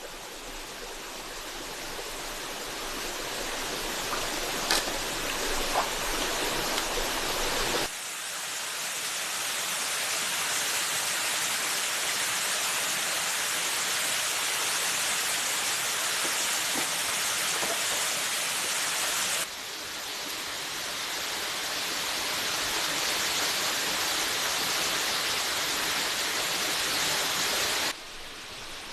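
Steady rushing of flowing stream water, heard in several segments that cut off abruptly and each swell gradually, with a couple of sharp clicks about five seconds in.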